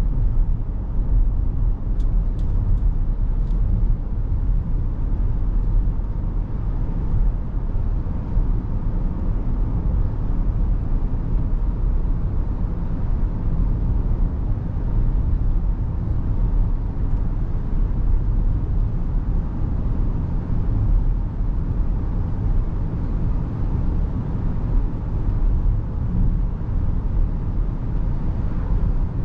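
Steady road and tyre rumble from the electric 2023 Rivian R1S Quad Motor SUV cruising, with no engine note. A few faint short ticks come about two seconds in.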